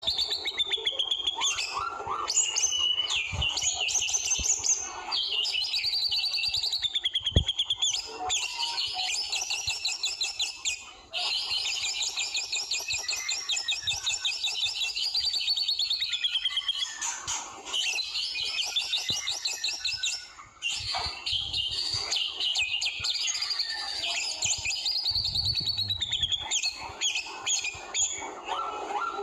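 White-rumped shama (murai batu) singing almost without pause in long, rapid rattling trills, the fast 'trotol' style, mixed with varied whistled phrases. There are brief breaks about 11 and 20 seconds in.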